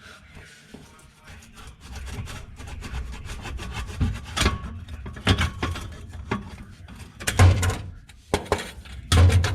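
Irregular knocks, scraping and heavy clunks of metal being worked on: the rear silencer of a stainless exhaust is being unclamped, freed from its rubber hanger and pulled off. Two of the clunks, about 7.5 and 9 seconds in, are the loudest.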